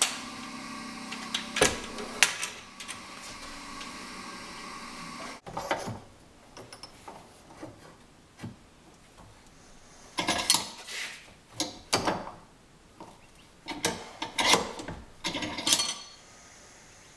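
Metalworking on a steel hoe blade: a steady tool noise with a low hum that cuts off abruptly about five seconds in, followed by scattered clanks, knocks and scrapes of metal and tools being handled.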